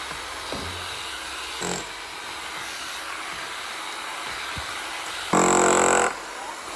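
Kango electric breaker hammer chopping at a foundation in short bursts: a brief blip about two seconds in, then a loud burst of under a second near the end, with pauses in between.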